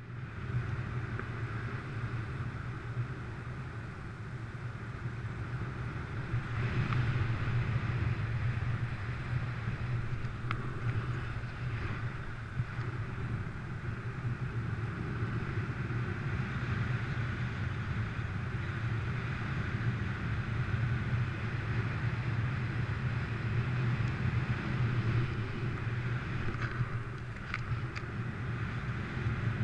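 Steady wind rushing over a GoPro's microphone in flight under a paraglider in high wind, a low rumble that gets louder a few seconds in, with a few faint ticks.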